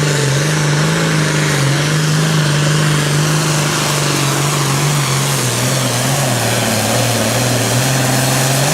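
A Super Farm class pulling tractor's turbocharged diesel engine running loud and flat-out under load as it drags the pulling sled. It holds one steady note that sags slightly in pitch about halfway through.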